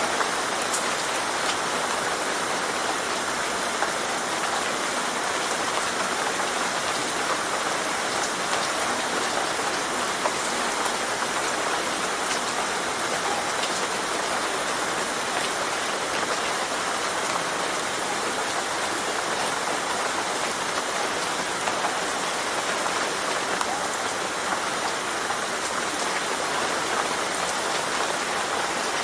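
Steady rain falling on a surface, an even hiss with many small drop ticks, unchanging throughout.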